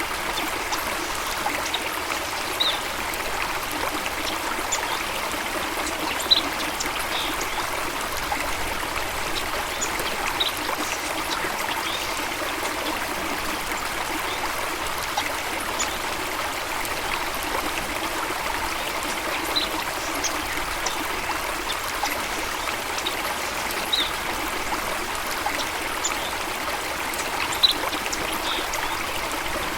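Flowing water running steadily, with an even rush and trickle. Brief faint high plinks come every few seconds.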